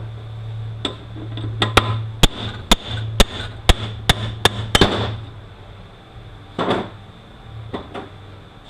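Hammer blows on a bushing driver, about ten sharp strikes in quick succession, driving a gear out of its bearing in a Toyota U760E transaxle case. A short rattle follows a couple of seconds later.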